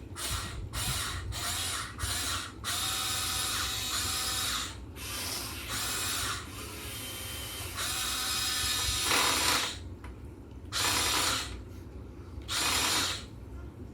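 Huina 1580 all-metal RC excavator's electric gear motors whirring in stop-start bursts: several quick short bursts at first, then longer runs of a second or two, as the boom, arm, bucket or tracks are moved.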